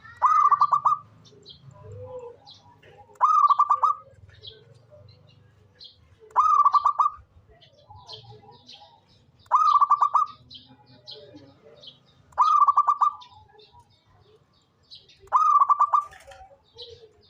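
Zebra dove (perkutut) singing: six short phrases about three seconds apart, each a quick run of notes. Faint high chirping sounds between the phrases.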